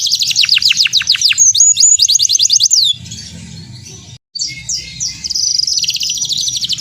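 Canary singing a loud, fast trilling song of rapidly repeated sweeping notes. The song drops away about three seconds in, cuts out for a moment, then resumes with another rapid trill.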